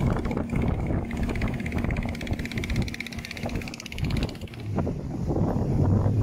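An engine running steadily with a fast even pulse, its note dropping to a deeper hum near the end, while wind buffets the microphone.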